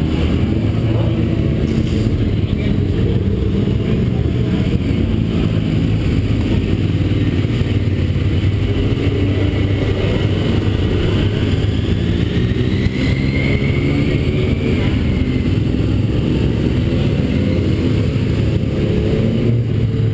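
2012 Honda CBR1000RR's inline-four engine running at steady, moderate revs, with a faint rising whine partway through.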